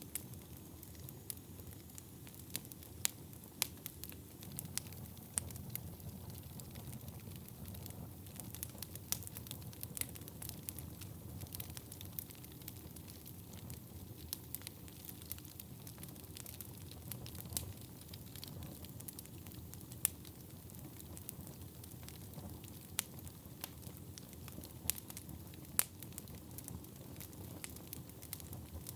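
Wood fire burning in a fireplace: irregular sharp crackles and pops over a low, steady rumble of flames.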